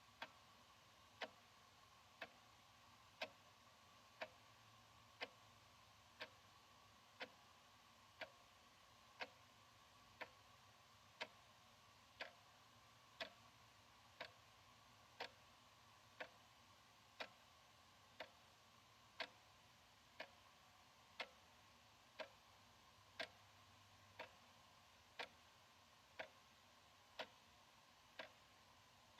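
Analog wall clock ticking steadily, one sharp tick each second, over a faint steady hum.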